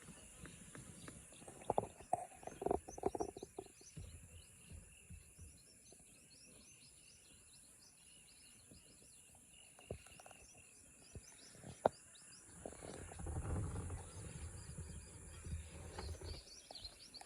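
Outdoor wetland ambience: many small bird chirps over a steady high-pitched hum, with a few louder low sounds about two to three seconds in and a low rumble about two-thirds of the way through.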